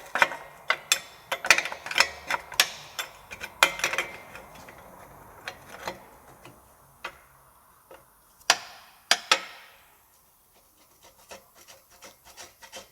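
Irregular clicks, taps and scrapes of hand tools and metal parts as a mechanic works at a car's downstream oxygen sensor, with a louder scrape about eight and a half seconds in and fainter clicking near the end.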